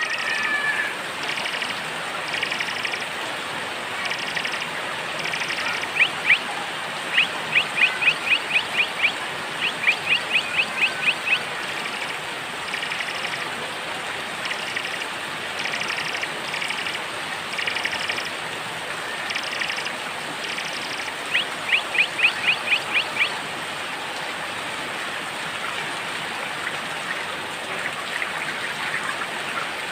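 Small songbirds chirping over steady rain: short chirps repeating about once a second, broken twice by runs of rapid loud notes, about eight a second, roughly a quarter and three quarters of the way through.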